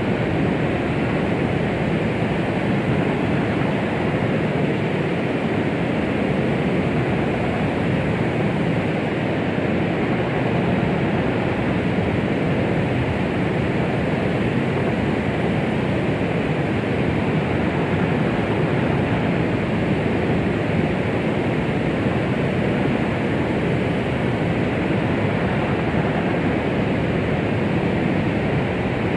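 Steady, unbroken rushing noise, heavier in the low end than the high, with no beat or pulse: a white-noise 'womb sound' track for soothing a baby.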